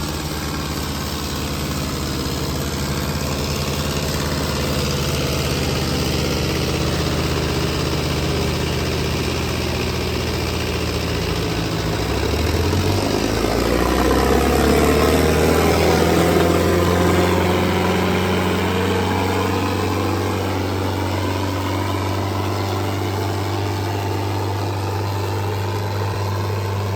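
Tractor diesel engine running steadily. About halfway through its pitch steps up as the revs rise, and it gets a little louder for a few seconds before settling.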